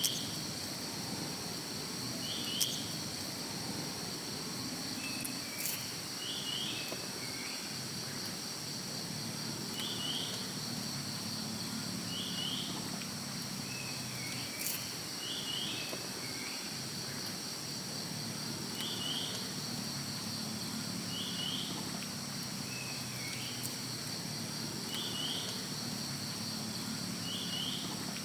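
Insect chorus, crickets trilling steadily and high-pitched, with a short chirped call repeating about every two seconds and a few faint clicks.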